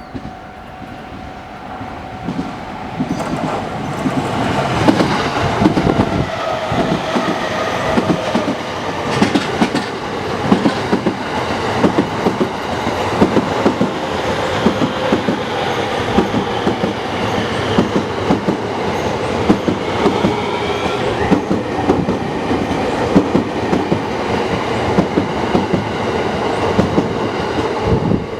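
JR East commuter electric multiple-unit train passing, growing louder over the first few seconds. Its wheels clack in a long run over the rail joints, and its motors whine steadily beneath.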